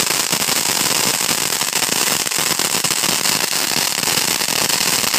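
Fireworks going off in a dense, rapid crackle of small pops that keeps up without a break.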